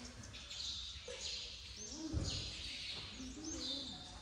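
Small birds chirping over and over, about two chirps a second, with a brief low sound about two seconds in.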